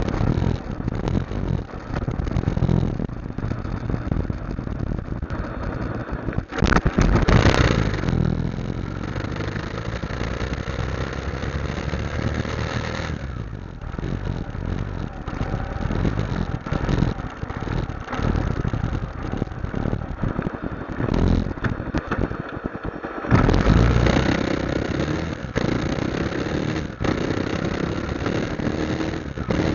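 Motorcycle engine running under way with a steady rushing noise, louder for a moment about seven seconds in and again about twenty-three seconds in, its pitch rising near the end.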